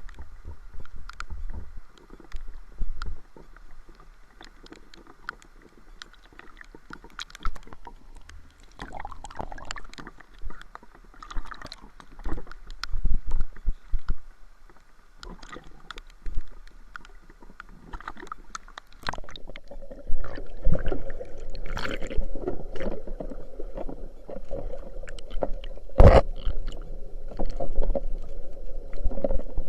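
Water sloshing and gurgling around a person in a river at night, with scattered irregular knocks and clicks. A steadier rushing noise comes in about two-thirds of the way through.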